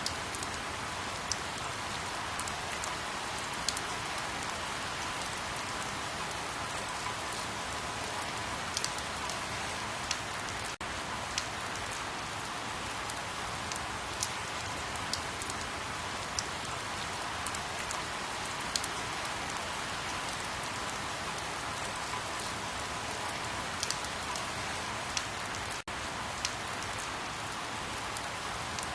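Steady rain: an even hiss with scattered, irregular sharp drop ticks. It drops out for an instant twice.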